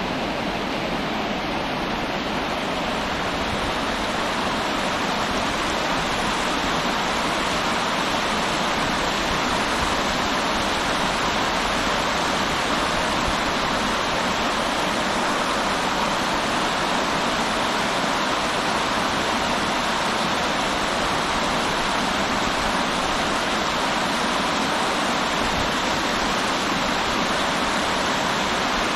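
River water rushing steadily, an even unbroken noise with no pauses.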